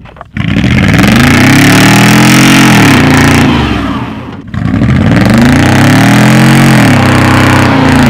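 Vehicle engine revved hard twice, the pitch climbing for about two seconds and then dropping each time, as a vehicle tries to drive out after getting stuck in the snow.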